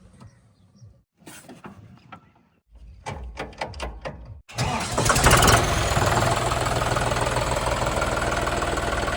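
A few faint clicks, then about halfway in a heavy diesel engine of the earthmoving machinery cuts in abruptly and runs loud and steady.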